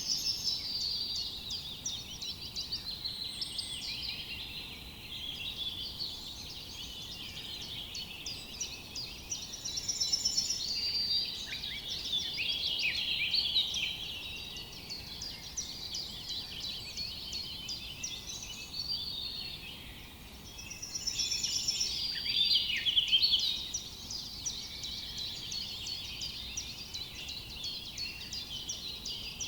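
A chorus of many forest songbirds chirping and trilling at once, with no let-up; the calls swell louder about ten seconds in and again around twenty-two seconds.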